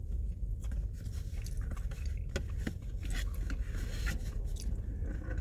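A person chewing food close to the microphone, with many small wet mouth clicks.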